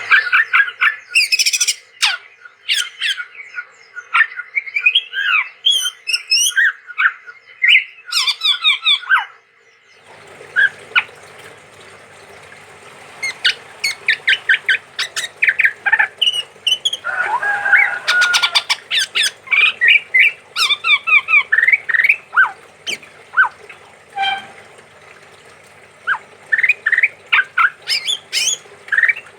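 Male chestnut-rumped babbler singing: a rapid, varied run of chirps and whistled notes, with a denser, lower burst of calls a little past halfway. About ten seconds in, a faint steady hum and hiss come in behind the song.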